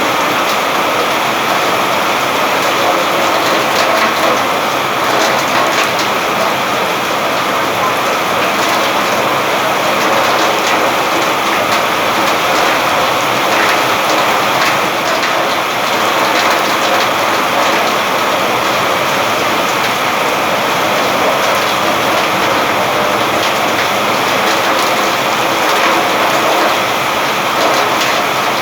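Steady rain falling: a dense, even hiss with fine individual drop impacts scattered through it.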